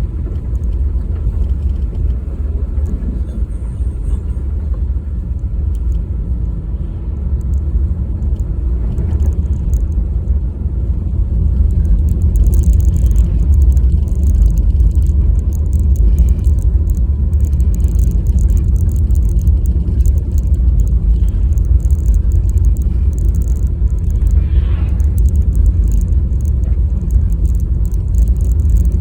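Car driving, a steady low rumble of road and engine noise that grows a little louder about twelve seconds in, with a faint flickering hiss above it.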